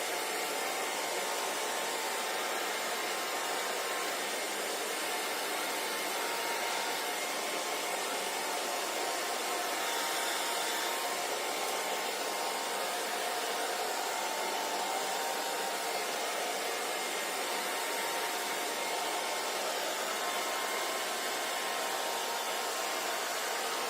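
Hair dryer running steadily, an even blowing hiss with a faint whine.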